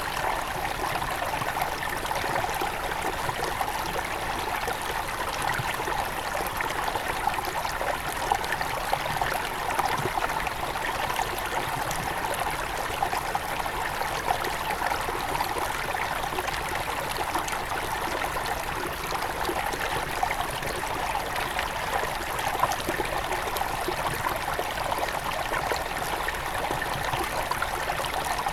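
Small forest river near its source flowing steadily over stones, a continuous babbling and trickling rush of water.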